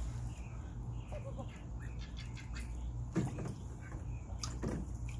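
Young Indian runner ducks calling softly while feeding at a pool, with two sharp splashing knocks about three and four and a half seconds in, over a steady low hum.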